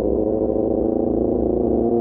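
QJMotor SRK600's inline-four engine running through an Austin Racing GP1R exhaust, holding a steady note that dips slightly and then starts to rise near the end as the rider opens the throttle.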